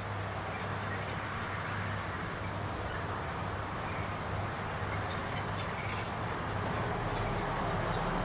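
A steady low engine hum under an even wash of outdoor noise, growing slightly louder near the end.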